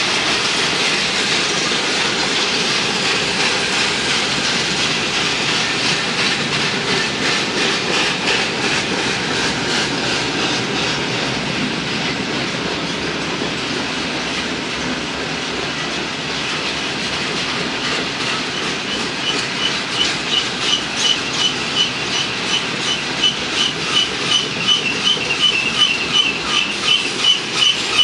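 Freight train's flatcars rolling past with a steady rumble and wheel noise. From about two-thirds of the way in, the wheels clack rhythmically, about one and a half beats a second, and a high-pitched squeal pulses along with them.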